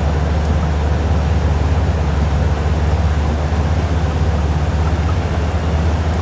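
Komatsu D375 bulldozer's diesel engine running under load with a steady low rumble.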